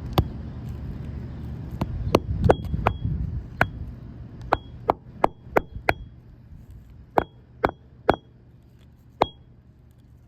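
Hammer driving roofing nails by hand through architectural shingles: about fifteen sharp metallic taps in uneven groups, several with a short high ring. The nails are hitting cement decking underneath and bending.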